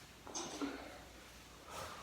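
A person breathing hard: two short, noisy breaths, the first about a third of a second in and the second near the end.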